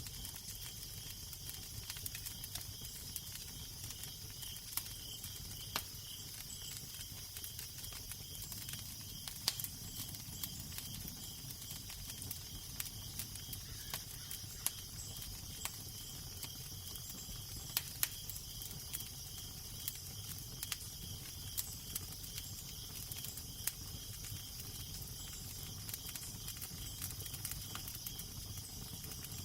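Fire crackling, with scattered sharp pops over a steady hiss, and a low wind rumble underneath.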